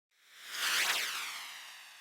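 Intro sound effect: a bright, shimmering whoosh that swells up in the first second and then fades away slowly.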